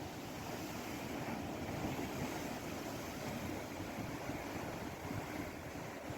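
Steady rushing wash of sea and wind, even throughout, with no distinct wave breaks.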